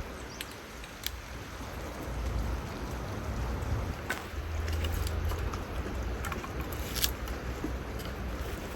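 Mountain stream flowing steadily, with wind buffeting the microphone in uneven low rumbles. A few small clicks are heard.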